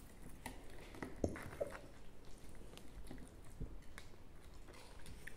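Faint chewing and mouth sounds of a person eating a forkful of lasagna, with scattered small clicks.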